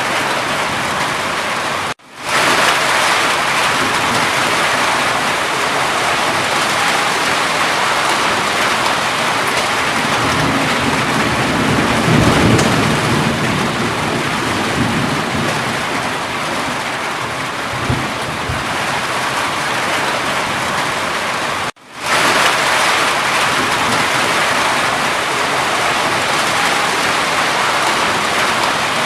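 Steady heavy rainfall, with a low rumble of thunder swelling and fading midway. The sound cuts out abruptly twice, about 2 seconds in and again about 22 seconds in, and fades back up each time.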